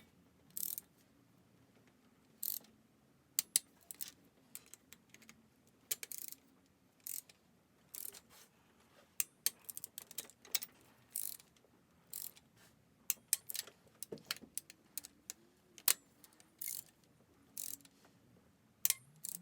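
Irregular sharp metallic clicks and clinks of a socket ratchet and hand tools as the cylinder head bolts are run down and tightened.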